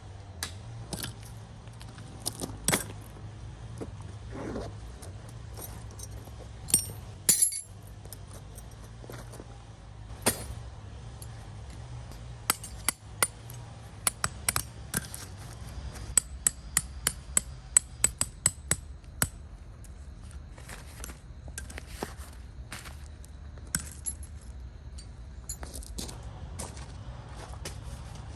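Irregular sharp clicks and light clinks of small hard objects, scattered and sometimes in quick runs, over a steady low hum.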